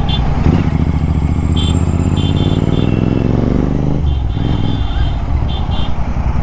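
Royal Enfield Continental GT 650's 648 cc parallel-twin engine pulling up through the revs for about three and a half seconds, then dropping off sharply as the throttle closes, before carrying on at lower revs.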